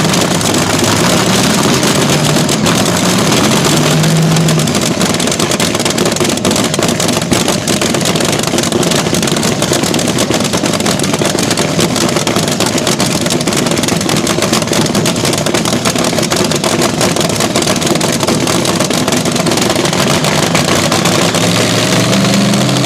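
Vintage slingshot drag racer's engine running loud through open exhaust headers: a steady, dense crackle of firing pulses that holds at much the same pitch.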